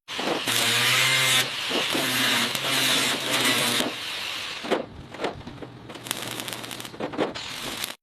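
Workshop power tool running in two long stretches with a steady hum and hiss, then quieter scraping with scattered clicks.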